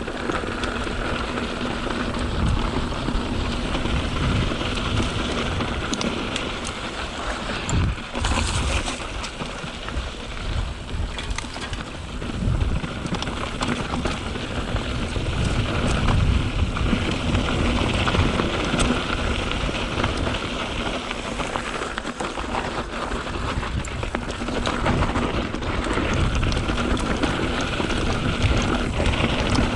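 Mountain bike tyres rolling and crunching over loose dirt and rock on singletrack, a steady gritty hiss, with uneven low rumble of wind on the microphone.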